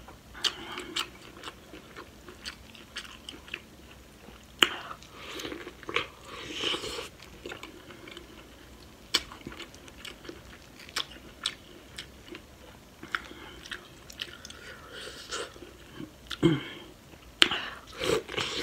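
Close-miked eating sounds: chewing and mouth smacking with many short sharp clicks, as sauced seafood-boil food is bitten and chewed. Near the end come bites into corn on the cob.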